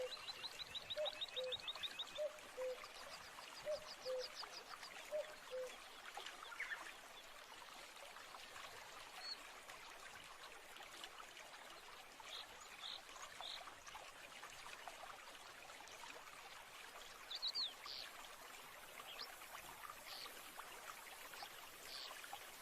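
Nature ambience of a steadily trickling stream with birds calling over it. In the first few seconds come fast high trills and a low call repeated about twice a second; after that there are only scattered short high chirps.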